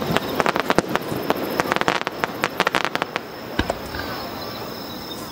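Fireworks display: a quick run of sharp pops and crackles for the first three seconds or so, then a single louder bang about three and a half seconds in.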